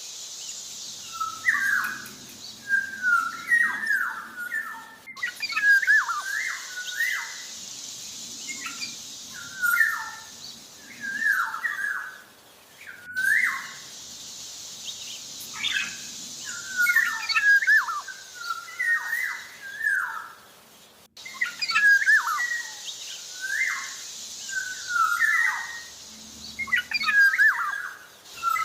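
Black-naped oriole singing in full, lively voice: short fluty whistled phrases with sliding pitch, repeated every second or two, over a steady high hiss.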